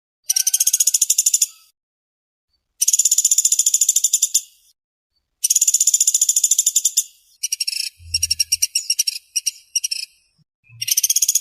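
Woodpecker (the pelatuk sampit or pelatuk beras of Indonesian bird-keepers) giving fast, dry, high-pitched rattling trills, the dense 'speed rapat' call, in bursts of about a second and a half with short pauses between. Towards the end the calls break into shorter, choppier runs.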